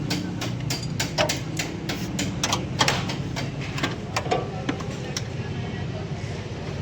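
Irregular metal clicks and knocks of hand tools on fittings as the AC discharge line is connected to the compressor. They die away about five seconds in, over a steady low hum.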